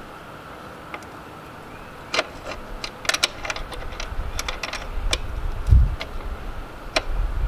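Scattered metal clicks and clinks of an adjustable wrench being fitted and turned on a motorcycle nut, several in quick succession about three seconds in. Wind buffets the microphone as a low rumble in the second half.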